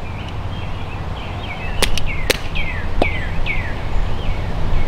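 A songbird singing a run of short, downward-sliding chirps, repeated several times a second, over a steady low rumble. Three sharp clicks come in the middle.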